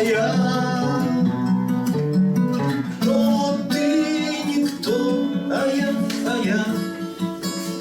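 Acoustic guitar playing a bard-song accompaniment, with a man's voice singing over it at times.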